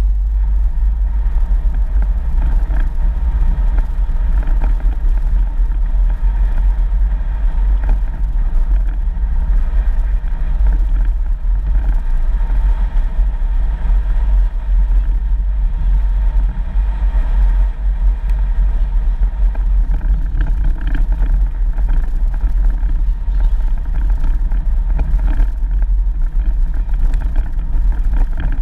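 4x4 vehicle driving along a dirt road: a steady engine and tyre rumble that holds throughout.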